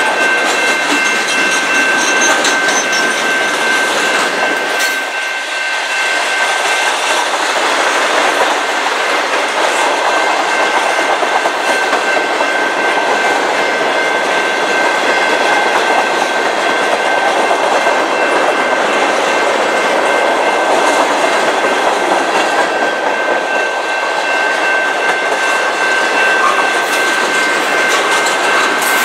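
Freight train cars rolling past at a steady pace, wheels clacking over the rail joints, with a steady high-pitched ring over the rolling noise.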